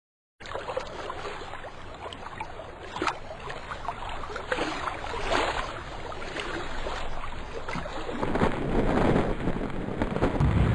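Water and wind sound effects: waves washing with scattered splashes, starting abruptly after silence and swelling louder about eight seconds in.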